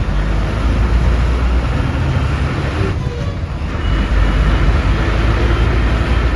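Steady low rumble of a moving bus's engine and road noise, heard from inside the cabin.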